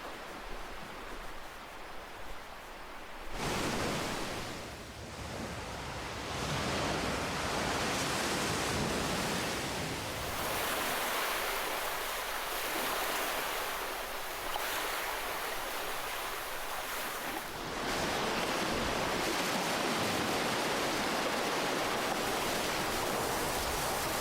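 Ocean surf: waves breaking and washing in as a steady rushing noise. A wave surges in about three seconds in, and the surf grows louder again about two-thirds of the way through.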